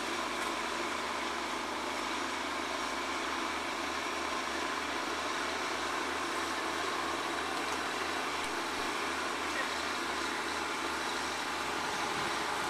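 Large truck engine idling steadily, with a low, even pulse.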